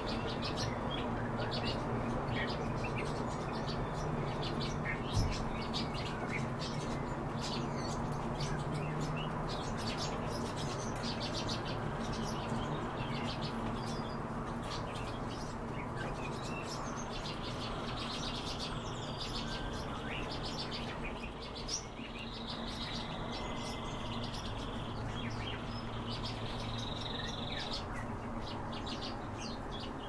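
Birds chirping and twittering with many quick short calls, and a few longer whistled notes held in the second half, over a steady low hum.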